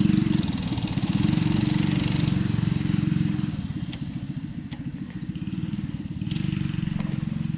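Minibike's small engine running steadily at high revs with its throttle stuck at full, held open by a stick jammed in that pulled the throttle cable. It runs a little quieter through the middle.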